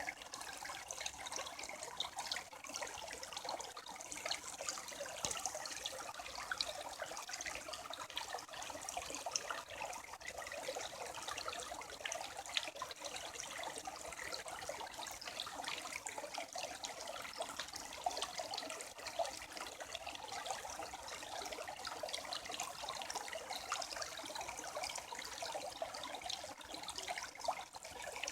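Creek water trickling and babbling steadily, a constant rush full of small splashes.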